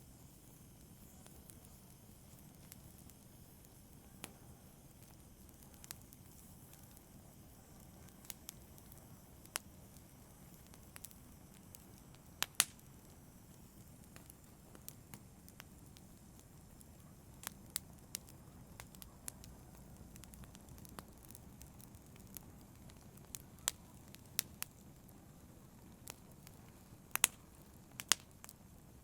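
Wood fire burning in a fireplace: a low steady rumble of flames with sharp, irregular crackles and pops every second or two, coming more often in the second half.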